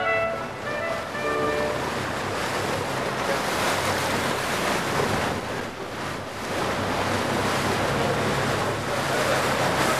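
Sea water rushing and splashing, with wind buffeting the microphone and a faint steady low hum underneath.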